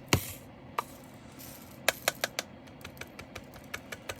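Sharp clicks and small rattles of loose resin diamond-painting drills and their small plastic containers being handled. One loud click near the start, another just before a second in, a quick run of four or five clicks about two seconds in, then lighter ticks.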